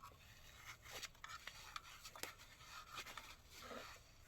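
Faint, irregular scratching and small clicks of electrical wires being handled as their bare ends are joined together.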